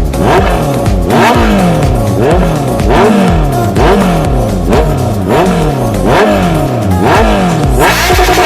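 Honda CBR650F inline-four motorcycle engine being revved over and over, each blip rising quickly in pitch and falling back, about one a second.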